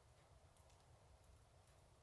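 Fireplace fire crackling faintly, a few soft ticks over a low steady rumble.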